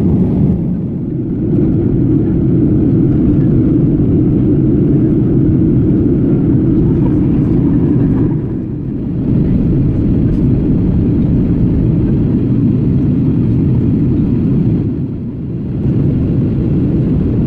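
Airliner cabin noise: a steady, loud low rumble of jet engines and airflow heard from inside the plane, dipping briefly three times.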